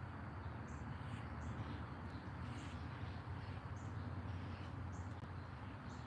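Short, high-pitched bird chirps repeated about every half second, over a steady low rumble.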